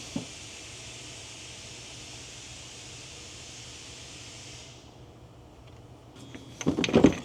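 Motor oil poured in a steady stream into a filler, a hissing pour lasting about five seconds that stops cleanly, followed near the end by a run of hard clattering knocks.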